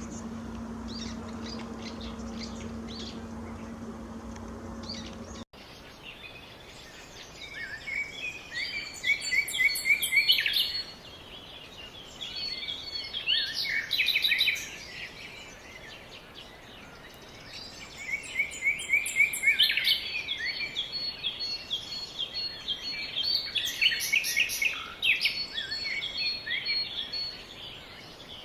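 A steady low hum for the first five seconds, cut off suddenly, then songbirds singing: repeated bursts of quick chirps and trills, several phrases in a row.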